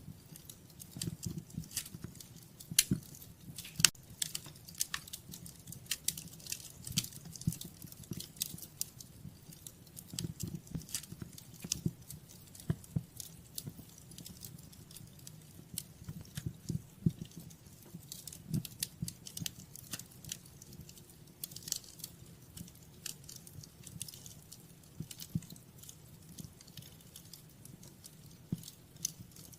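Wood fire crackling in a fireplace: irregular sharp pops and snaps, some louder than others, over a soft low rumble of burning.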